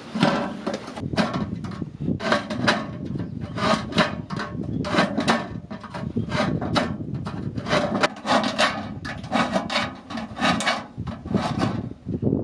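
Repeated rasping, scraping strokes, about two to three a second, as of something being scraped or rubbed hard by hand.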